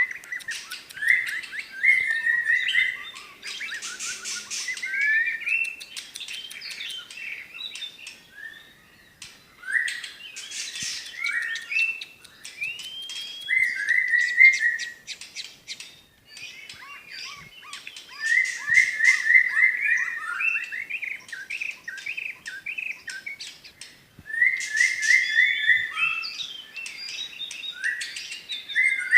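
White-rumped shama (murai batu, Medan type) singing a long, varied song: fast runs of repeated whistled notes, rising sweeps and sharp clicking notes, in phrases with short pauses between them. It includes the loud, sharp phrases that keepers call 'tembakan'.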